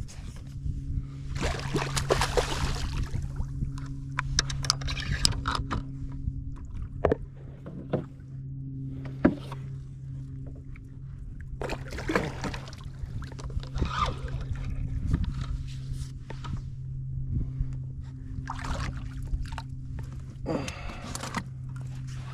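Water splashing and sloshing around a fishing kayak, with scattered knocks and clicks on the boat and a steady low hum underneath.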